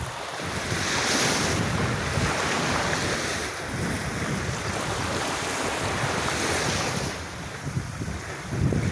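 Sea waves washing onto a beach, swelling about a second in, easing off later and surging again near the end, with wind rumbling on the microphone.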